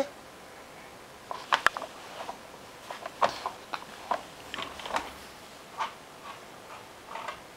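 Irregular light clicks and taps from the plastic parts of a Bright Starts Around We Go activity center as the baby moves around it. There are about a dozen sharp ticks, spaced unevenly.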